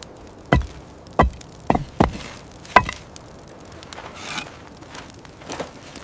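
A run of about five sharp, irregularly spaced knocks or chopping blows in the first three seconds, followed by two softer rushing swells.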